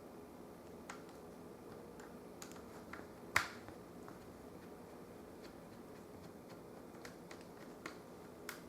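Small scattered clicks and taps of a screwdriver and screws as the screws are taken out of a laptop screen's side rail, the sharpest tap about three and a half seconds in.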